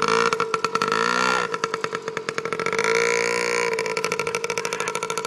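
Yamaha PW50's small single-cylinder two-stroke engine running, its pitch rising and falling twice as the throttle is opened and eased.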